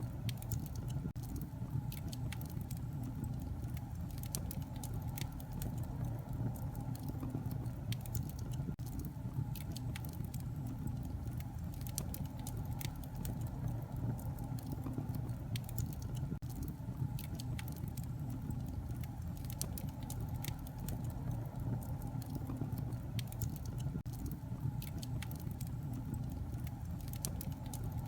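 Wood fire burning in a fireplace, with a steady low rumble and many scattered sharp crackles and pops.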